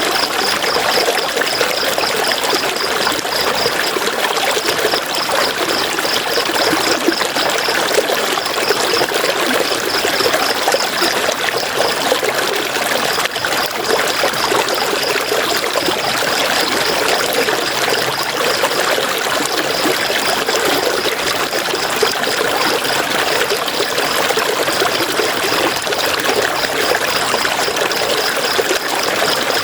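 River water flowing steadily, a constant rushing and trickling. Over it, a high, fast pulsing trill comes and goes in runs of several seconds with short breaks.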